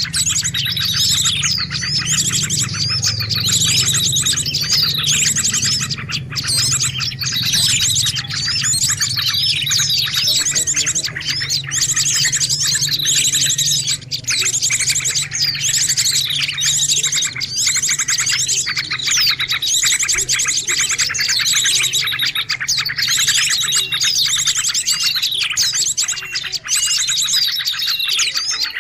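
Dense, busy chorus of small birds chirping and twittering rapidly and without pause, with a faint low hum underneath. It is a noisy bird-lure call recording ('suara ribut pikat') used to draw in birds.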